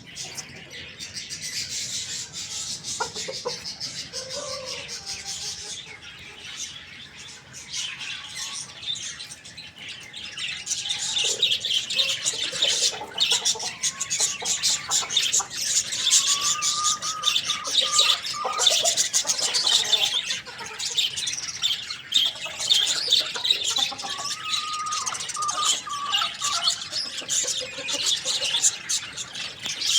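Many small birds chirping and chattering continuously, with a few lower calls mixed in; the chatter gets louder about a third of the way in.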